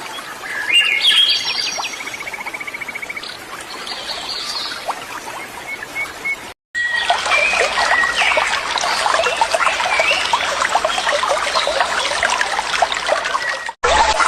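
Rushing waterfall water with small birds chirping and trilling over it. The sound drops out for an instant about six and a half seconds in and again near the end, and the water is louder after the first break.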